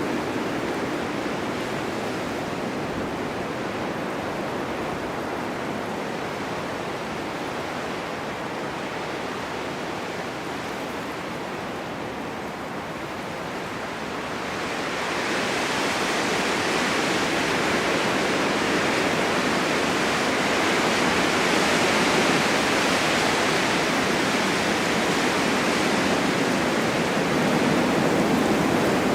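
Blizzard wind with blowing snow, a steady rushing hiss that swells into a louder, higher gust about halfway through.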